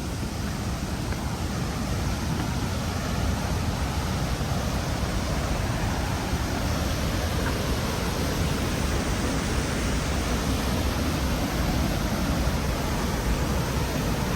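Steady roar of the Rhine Falls' rushing water, a dense even rush that grows a little louder about two seconds in.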